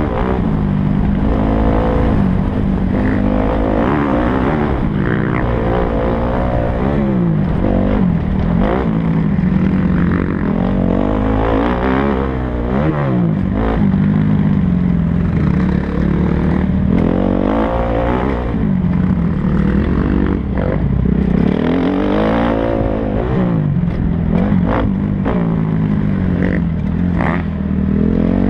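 Kawasaki KX250F four-stroke single-cylinder motocross engine being ridden hard, its pitch rising and falling over and over as the revs climb and drop.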